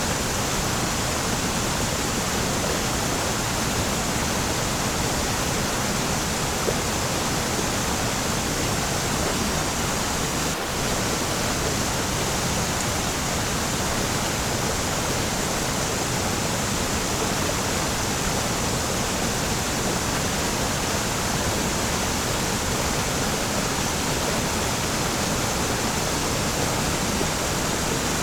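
Waterfall: falling water making a steady, even rush of noise with no breaks.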